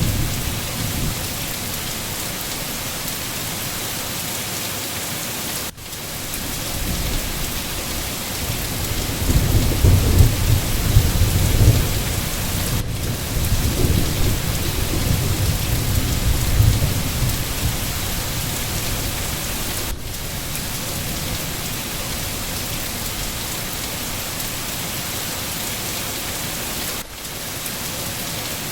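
Steady rain falling in a constant hiss, with a low rumble of thunder rolling through the middle and fading away. The hiss drops out briefly about every seven seconds.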